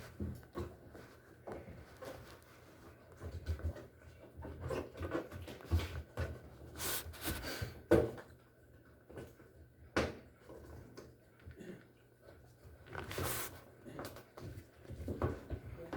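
Intermittent knocks, clunks and light clatter of objects being handled, with one sharp knock about halfway through and a brief rushing noise about three-quarters of the way in.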